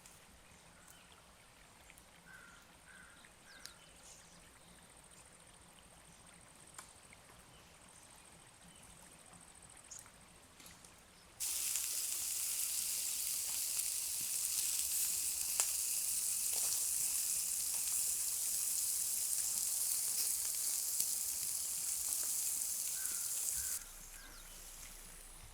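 Quiet outdoor ambience with a few faint ticks and a short triple chirp. About halfway in, a loud steady sizzling hiss of food cooking over a campfire cuts in suddenly, then stops just as suddenly near the end.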